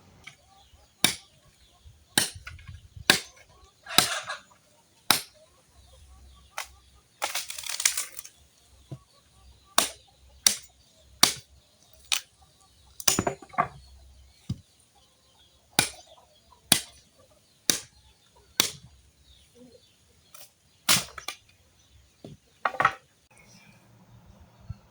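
Firewood being chopped for a bonfire: about twenty sharp strikes, roughly one a second, with a longer crackling crash a little under a third of the way in.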